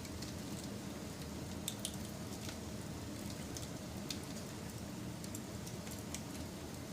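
Wood fire burning: irregular sharp crackles and pops over a steady low rush of flames.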